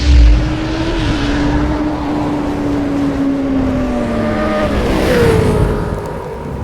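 Sport motorcycle engine running hard. Its pitch sags around four seconds in, then a higher engine note takes over about five seconds in.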